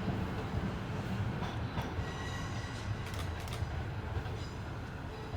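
Class 156 Sprinter diesel multiple unit pulling away under power, its underfloor diesel engines giving a loud, steady low rumble. Thin high-pitched wheel squeal rises over it for a second or so in the middle.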